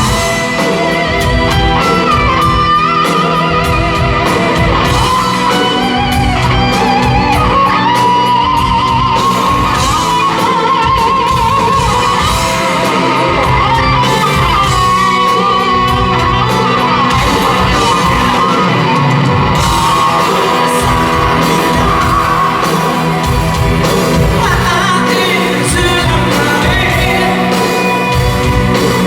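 Live rock band playing an instrumental passage in a large hall: a wavering electric guitar lead over drums and bass, with voices singing and shouting along.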